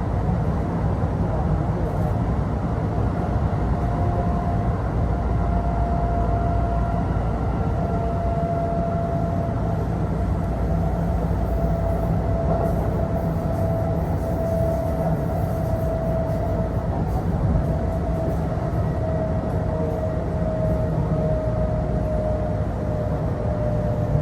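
Kintetsu Osaka Line local train running, heard inside the passenger car: a steady rumble of wheels on rail with a held whine that sinks slightly in pitch toward the end.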